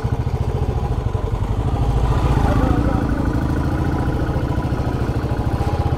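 Royal Enfield Classic 350's single-cylinder engine running steadily as the motorcycle is ridden slowly over a muddy track.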